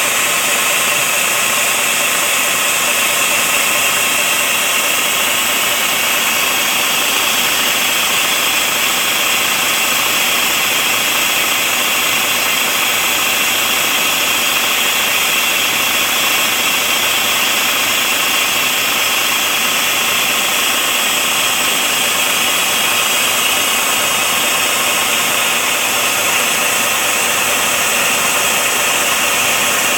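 Steady, loud hiss of compressed air venting as a central tyre inflation system lets the pressure out of a heavy 8x8 truck's tyres, unchanging throughout.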